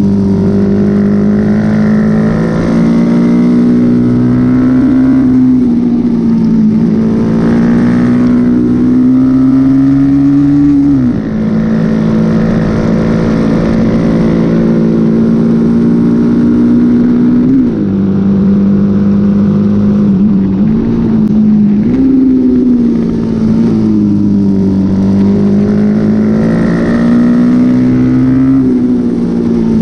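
Honda XL motorcycle engine running hard under race throttle. Its note climbs slowly, drops sharply twice as it shifts up, and jumps back up later on.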